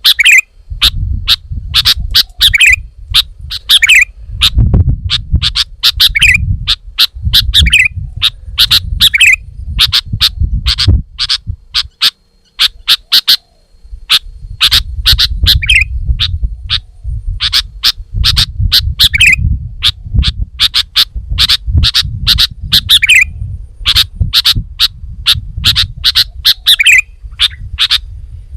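Sooty-headed bulbul (kutilang) calling: a rapid run of sharp, high chirps with a bent, hooked note recurring every couple of seconds. A low rumble runs underneath and breaks off briefly about twelve seconds in.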